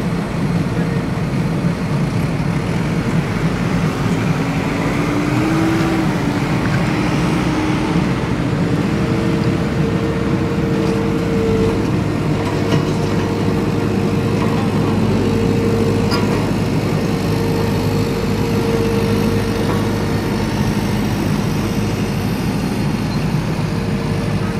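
Vehicle engine running steadily, a continuous rumble with a faint hum that rises a little about five seconds in.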